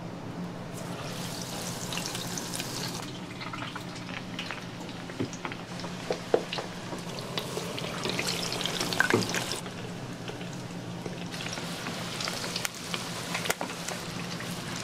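Food frying in hot oil, the sizzle swelling and easing several times, with a few sharp clanks of metal utensils and a steady low hum underneath.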